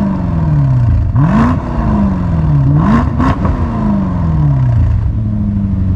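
Range Rover 4.4-litre twin-turbo V8 blipped through a run of quick free revs through a QuickSilver Sound Architect valved sport exhaust. Each rev drops back, and the engine settles to a steady idle near the end.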